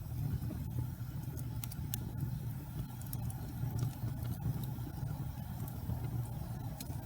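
Wood fire burning in a fireplace: a steady low rumble from the flames with sharp crackles and pops at irregular moments.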